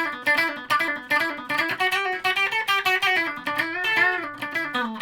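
Electric guitar (a custom Stratocaster) played through an amp: a flowing phrase of short picked single notes with some string bends and vibrato. Its pickups are wired humbucking and out of phase, pickup-selector position 2.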